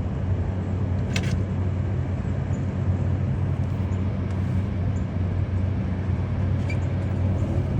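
Steady low hum of a running motor vehicle, with a brief high sound about a second in.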